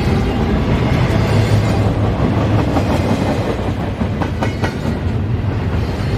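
CSX intermodal freight train's cars rolling past: a steady rumble of wheels on the rails, with a few sharp clicks of wheels over rail joints a little past the middle.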